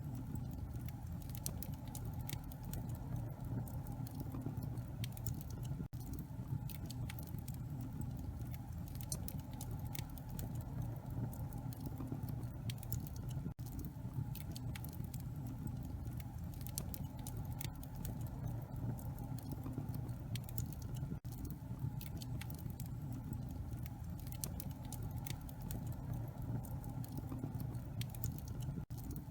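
Wood fire burning in a fireplace: a steady low rumble with frequent small crackles and pops from the burning logs.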